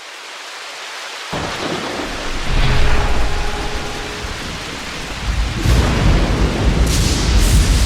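Heavy rain hissing steadily, with thunder rumbling in long rolls that begin about a second in and swell again twice.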